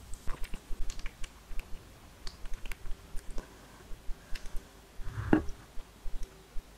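Close-miked chewing: a run of small, sharp wet mouth clicks, with one louder, fuller mouth sound a little past five seconds in.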